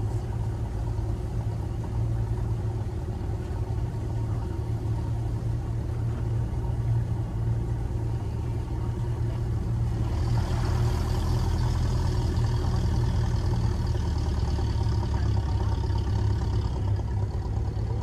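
Land Rover 4x4's engine running steadily at low speed. About ten seconds in, a hiss joins it for several seconds.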